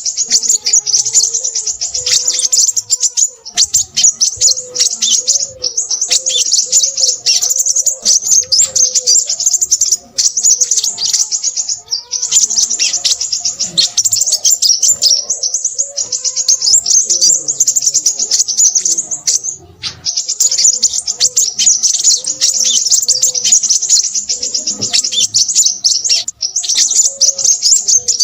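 Crimson sunbird singing: long runs of very rapid, high-pitched chattering trills, broken by a few short pauses.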